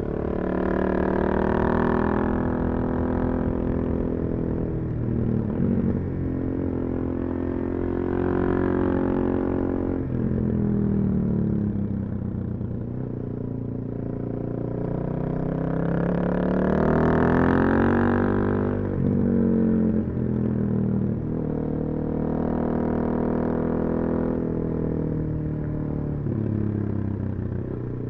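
Suzuki DR-Z400SM's single-cylinder four-stroke engine, with a full Yoshimura exhaust, pulling under throttle and easing off again about four times while the bike is ridden, its pitch climbing and dropping with each pull.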